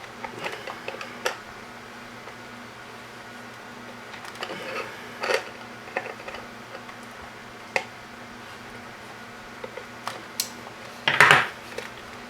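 Scattered clicks, taps and scrapes of small tools and hardware as the mounting nut of a toggle switch is tightened onto a project enclosure, with a louder, longer scrape or rattle near the end. A steady low hum runs underneath.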